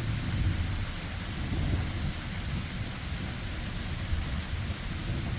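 Continuous rolling thunder with steady rain. Lightning strikes come several per second, so the deep rumble never stops.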